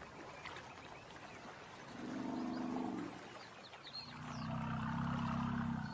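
Two low, drawn-out calls from a large wild animal, the first about a second long and the second about two seconds, with faint bird chirps behind.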